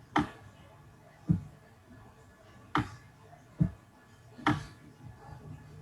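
Five short, sharp clicks or taps, a little under a second to about a second and a half apart, some duller than others.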